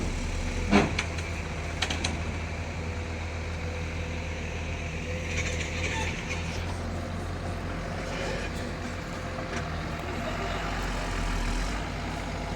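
Heavy diesel engines of an excavator and a backhoe loader running steadily under load while pulling a stuck dump truck, which has not yet come free. A sharp knock comes about a second in, and a brief hiss around the middle.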